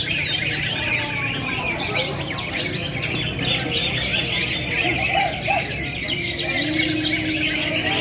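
Many songbirds singing and chirping at once: a dense, steady chatter of short overlapping calls.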